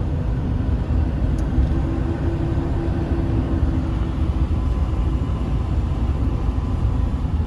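Steady low rumble of a moving vehicle, with a faint engine hum.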